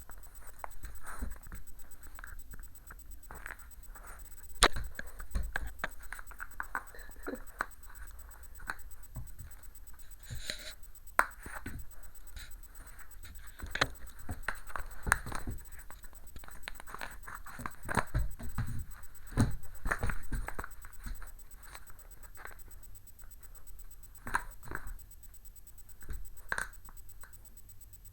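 A puppy playing with and chewing a shoe: irregular scratching, scraping and small knocks, with occasional low thumps.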